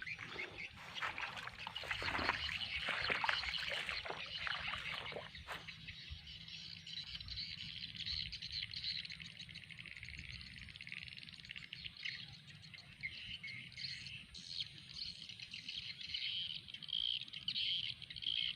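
Birds chirping and calling in a dense, steady high chorus. In the first five or six seconds, scattered knocks and rustles sound over it.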